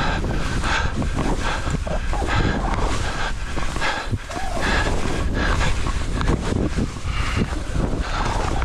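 Skis swishing through deep snow in a run of turns, with wind rushing over the microphone.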